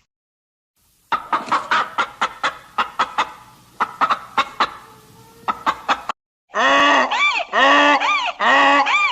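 A chicken clucking in a run of short, sharp clucks for about five seconds. After a brief pause, a goose starts honking in loud, repeated calls, about two a second.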